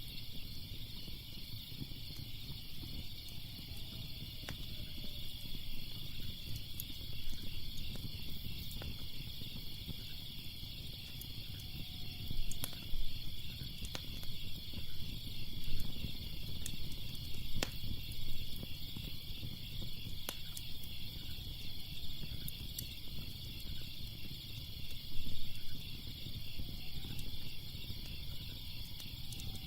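Wood fire crackling, with scattered sharp pops and a low steady rumble; a few louder pops come about twelve, sixteen and twenty-five seconds in. Crickets chirp steadily in a fast, even pulse behind it.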